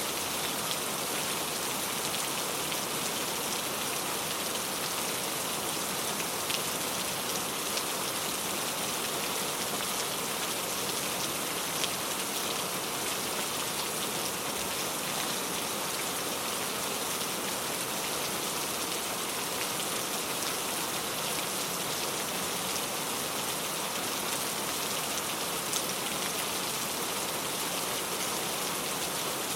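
Steady rain falling, an even hiss of many drops with a few louder single drops standing out now and then.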